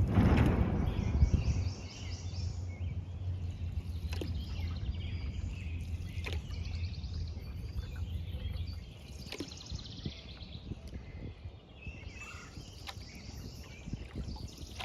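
Canoe paddling on a creek: a rush of water in the first second and a half, then high, rapid bird chirping over a low rumble that fades about nine seconds in, with a few light knocks.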